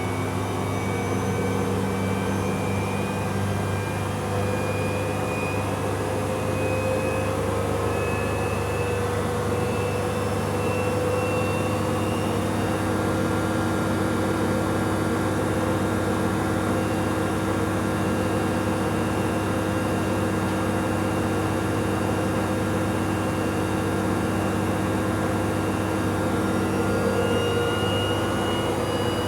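Bauknecht Super Eco 7615 washing machine drum spinning, its inverter motor giving a high whine over a steady low hum. The whine rises slowly in pitch as the motor speeds up, with a shift about halfway through and another rise near the end.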